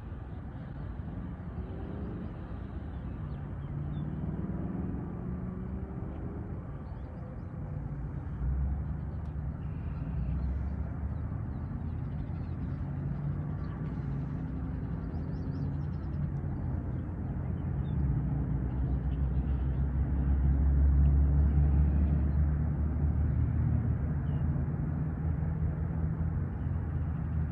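Engine of a nearby motor vehicle running with a low drone. Its pitch rises and falls a few seconds in, then it grows louder, peaks about two-thirds of the way through and eases off.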